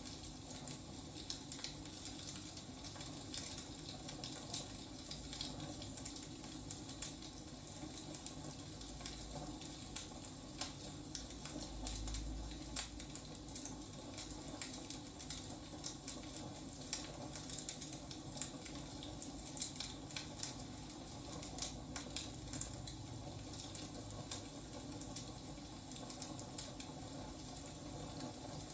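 Wood fire burning, with a steady hiss and many small irregular crackles and snaps.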